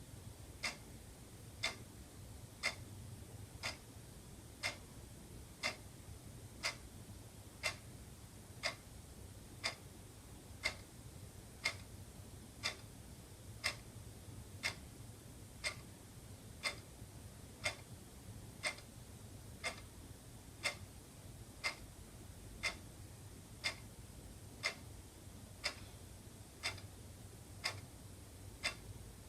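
Wall clock ticking steadily, one sharp tick each second, over a faint low hum.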